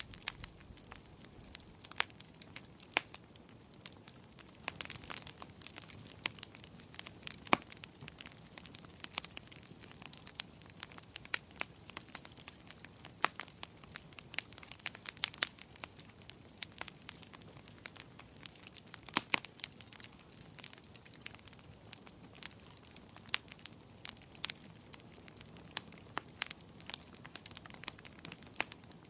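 Wood fire crackling in a fireplace: irregular sharp pops and snaps over a faint steady hiss, several a second, with a few louder pops among them.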